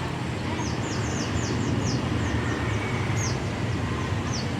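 A small bird chirping, a dozen or so short high notes that each drop in pitch, over a steady low rumble.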